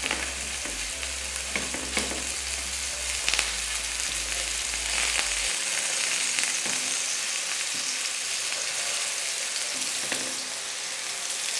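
Chicken kebabs sizzling in oil on a flat griddle pan (tawa), a steady hiss. A few light clicks in the first few seconds as tongs turn the kebabs against the pan.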